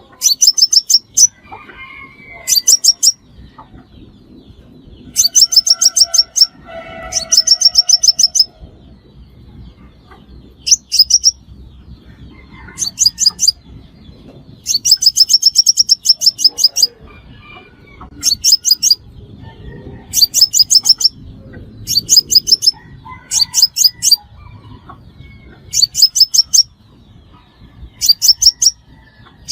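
Sunbird song used as a trapping lure: short bursts of rapid, high-pitched twittering notes, repeated every second or two.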